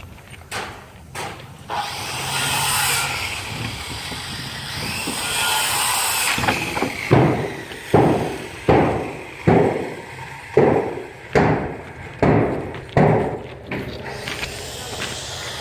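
Scrap lumber being handled: boards scraping and shifting against each other, then a run of about a dozen sharp, evenly spaced knocks on wood a little under a second apart.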